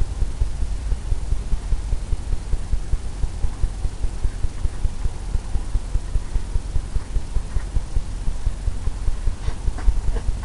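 Paintbrush tapping against a stretched canvas: rapid, even low thumps about four a second, with a few lighter clicks near the end.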